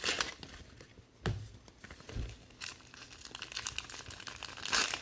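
Crinkling and rustling of plastic card-pack wrappers and handled trading cards, in scattered bursts, with a single soft knock about a second in and a louder rustle near the end.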